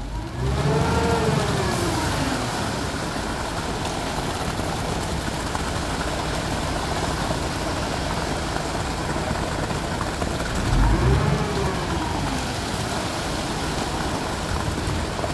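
An engine running steadily, revved up and back down twice: once just after the start and again about ten seconds in.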